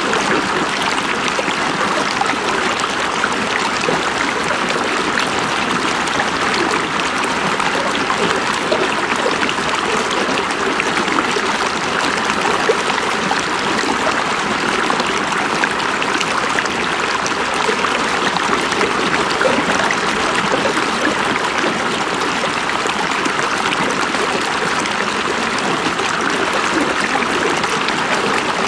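A river flowing, an even, steady rush of water.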